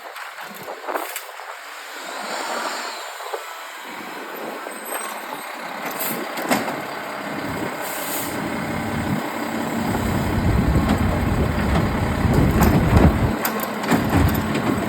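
Mack LEU garbage truck: short air hisses about six and eight seconds in, then its engine grows louder and runs steadily and heavily through the second half.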